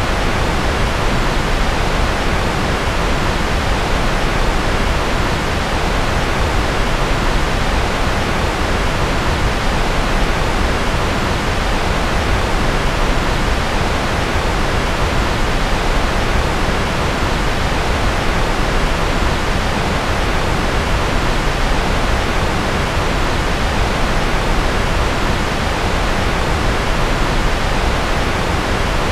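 Steady synthetic noise for focus, an even, unchanging hiss spread across low and high pitches.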